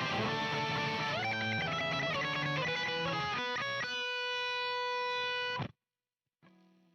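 Guitar music: a run of changing notes settles into one held chord, which cuts off suddenly about two-thirds of the way through.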